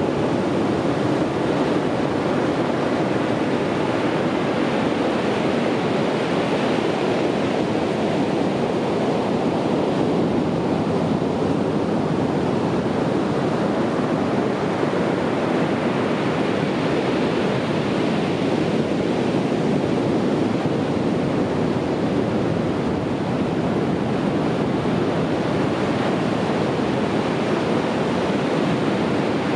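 Ocean waves breaking and washing on a beach in a continuous, steady wash of surf, swelling and easing gently.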